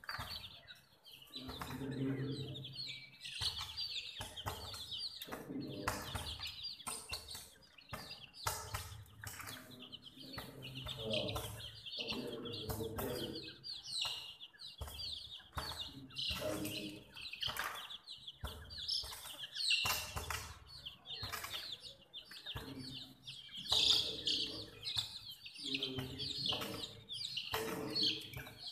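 Baby chicks chirping continuously in a dense flock, high short peeps, mixed with many sharp clicks and knocks.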